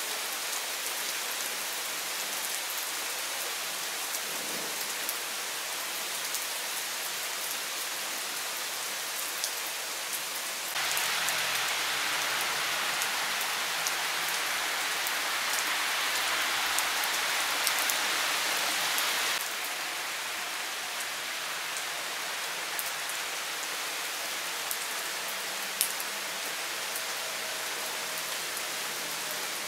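Steady thunderstorm rain falling on trees and garden, with occasional single drop hits. About a third of the way in, for some eight seconds, it is louder and closer: rain splashing onto wet paving and into a water-filled plant saucer.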